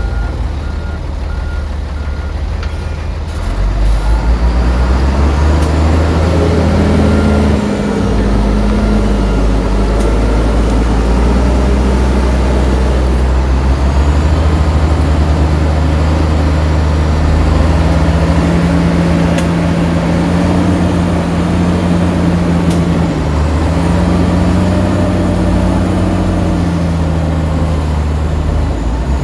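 Reversing-alarm beeps for the first few seconds, then the diesel engine of heavy earthmoving machinery revving up under load, its pitch rising and falling as it works.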